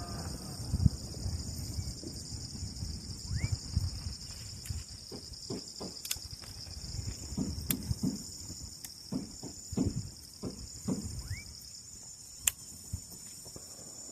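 A steady chorus of crickets and other insects shrilling, with scattered clicks and knocks and two short rising chirps, the first a few seconds in and the second near the end.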